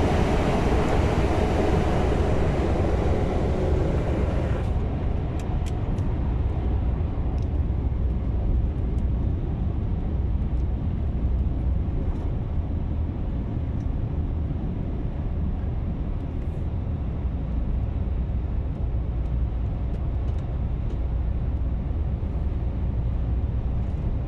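Scania V8 diesel truck engine running with a steady deep rumble. A higher hiss over it drops away about five seconds in.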